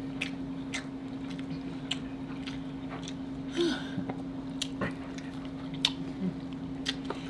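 Close-miked chewing and biting of soft, saucy king crab and lobster meat by two people, with scattered sharp wet mouth clicks. A steady low hum runs underneath.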